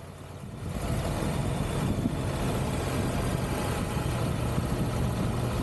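Triumph Tiger 1200 three-cylinder motorcycle engine pulling away and then running steadily under riding wind and road noise, heard through a helmet-mounted microphone. The sound builds about half a second in and then holds level.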